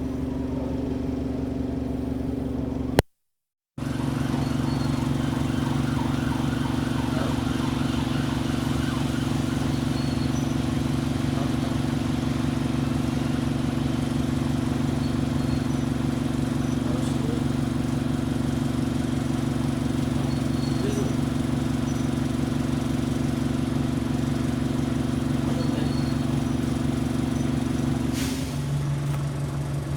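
Diesel engine of an Alexander Dennis Enviro200 bus running at a steady speed, with a short break about three seconds in and a shift in pitch near the end.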